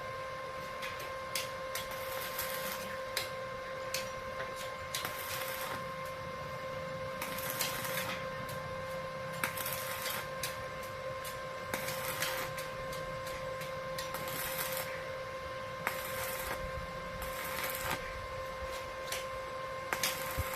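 Electric arc welding: short runs of crackling, sizzling arc noise, each lasting about half a second to a second and struck again every second or two, over a steady electrical hum.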